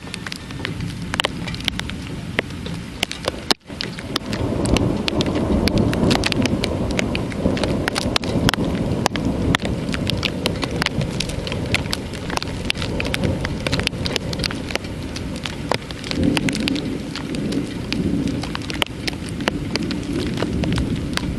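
Heavy thunderstorm rain, with many sharp drop impacts close to the microphone. After a brief dropout about three and a half seconds in, a low rumble joins the rain and stays.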